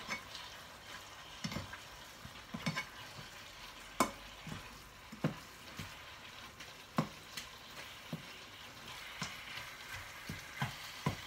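Minced pork and chillies sizzling in a non-stick frying pan as they are stir-fried for pad kra pao, with a steady hiss. The spatula taps and scrapes against the pan in sharp clicks about once a second, the strongest about four seconds in.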